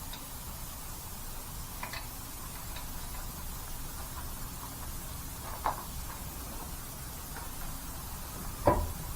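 Faint scattered clicks and two sharp knocks, the second and louder one near the end, over a steady low hum: tools or parts being handled.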